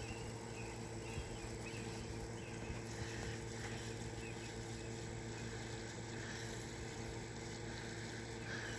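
Faint bird chirps and a few soft calls over a steady background hum.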